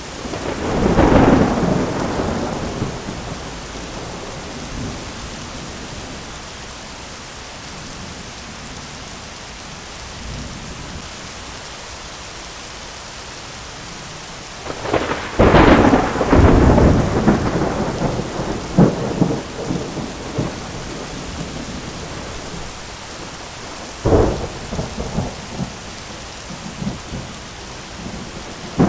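Thunderstorm: steady rain hiss with thunder: a rolling rumble about a second in, a loud crack and rumble about halfway through with crackling strokes after it, and a sharper clap with a short rumble near the end.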